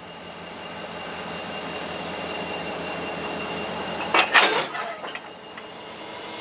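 Train running past, its steady rolling noise swelling, with a short cluster of loud metallic clanks about four seconds in and a couple of lighter clicks after.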